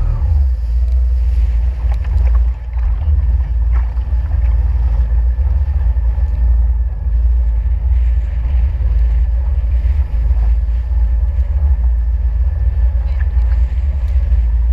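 Jet ski running steadily on the water, its engine drone mixed with heavy wind buffeting on the microphone.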